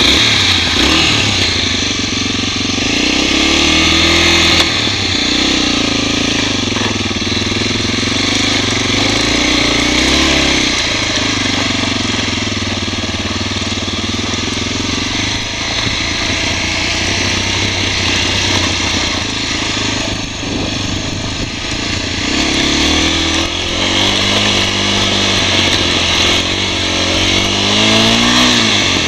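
Honda NX250's single-cylinder four-stroke engine running just after starting, then pulling away and rising and falling in pitch as the bike accelerates and eases off on a dirt trail. A steady rush of wind noise on the goggle-mounted camera runs under it.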